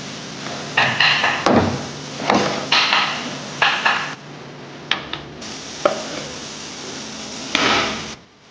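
Irregular knocks and clatters of hand tools at work, about eight in all, over a steady hiss that grows louder in the second half and cuts off suddenly near the end.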